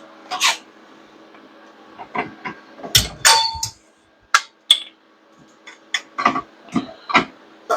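Irregular metal clanks and knocks, about a dozen, the loudest a cluster about three seconds in: metal welding gear and steel parts being handled.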